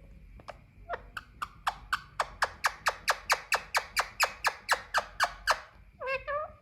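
Female Indian ringneck parakeet giving a fast, even run of short, sharp calls, about four or five a second, then a brief chattering call near the end.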